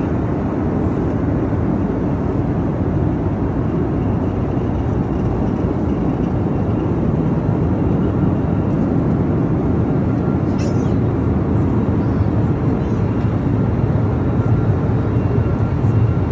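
Steady cabin noise of an Airbus A321neo in flight: a constant rush of engine and airflow noise, heaviest in the low range, with a faint thin tone in the second half.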